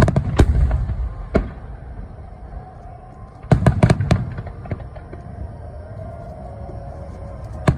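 Aerial fireworks shells bursting: a couple of sharp bangs in the first second and a half, a rapid cluster of several bangs about three and a half seconds in, and another bang near the end, with low rumbling in between.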